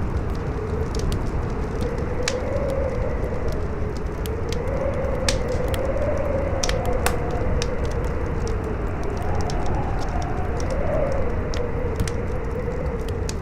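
Campfire crackling, with sharp pops scattered irregularly through, over steady howling wind whose tone slowly rises and falls.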